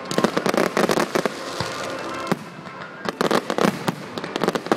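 Fireworks display going off: a rapid run of cracks and bangs in the first second or so, a brief lull, then another dense burst of crackling about three seconds in.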